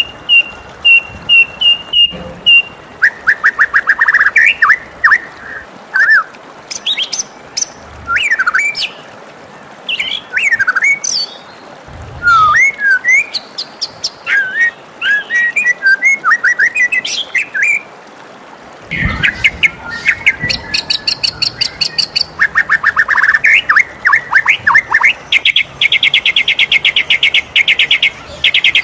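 White-rumped shama singing a long, varied song of loud whistled phrases that slide up and down in pitch. It opens with a quick run of repeated high notes and ends in fast trills.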